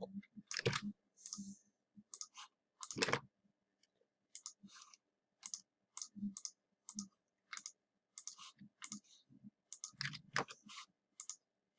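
Computer mouse and keyboard clicking: faint, sharp single clicks and quick pairs at an uneven pace, about one or two a second.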